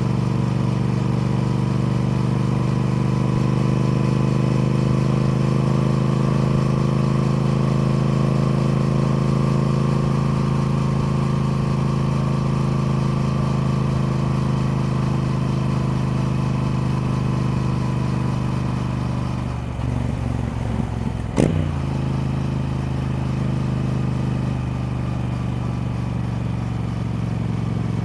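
Triumph Speed Twin parallel-twin motorcycle engine running at a steady, slowly drifting pitch. About three quarters of the way through, the note briefly dips and turns ragged, with a single sharp click, then the steady running resumes.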